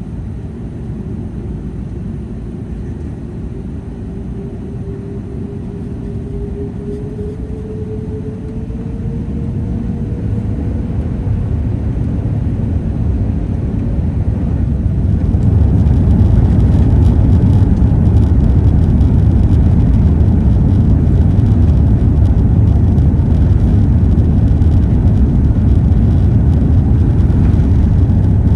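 Airbus A380 jet engines heard from inside the cabin, spooling up for takeoff. A tone rises slowly while the rumble grows much louder about halfway through, then holds steady as the jet accelerates down the runway.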